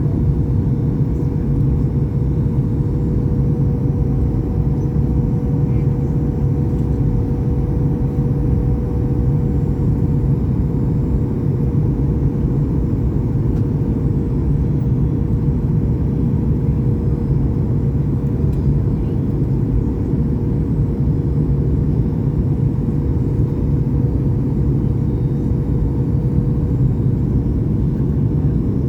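Steady cabin noise aboard a Boeing 737 MAX 8: a low rumble of its CFM LEAP-1B engines and airflow, with a steady hum tone over it.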